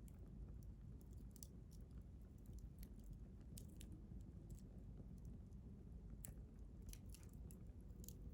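Wood fire crackling faintly, with irregular sharp pops and snaps several times a second over a low, steady rumble.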